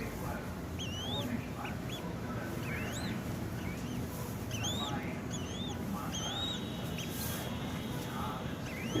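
Falcon chick giving repeated high-pitched begging calls, each a short rise-and-fall note, about one or two a second, with one longer drawn-out call about six seconds in.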